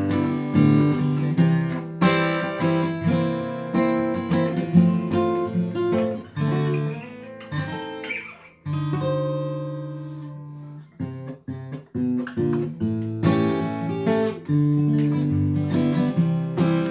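Acoustic guitar playing a blues instrumental passage, plucked notes over bass notes, with a held note that fades out about halfway through before the picking resumes.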